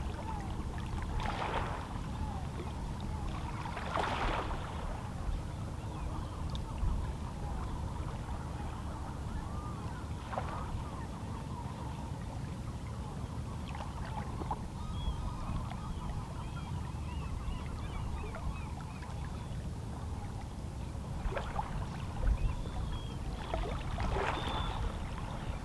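Small, calm sea waves lapping against shoreline rocks, with a splash every few seconds over a steady low rumble. Faint seabird calls sound in the background.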